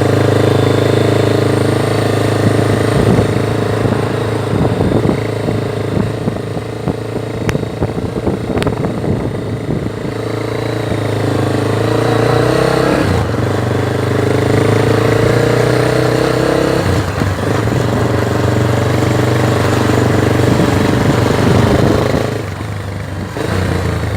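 Honda Twister motorcycle engine running. Its tone holds fairly steady, with brief dips about halfway through and again a few seconds later, then eases off near the end.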